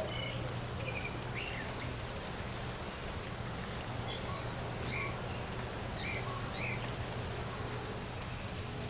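Backyard birds giving short, scattered chirps over a steady low hum and hiss.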